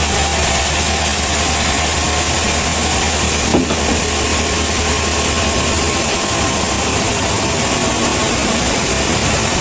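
Engine running steadily at idle, a low hum that eases off about six seconds in, with a single short knock about three and a half seconds in.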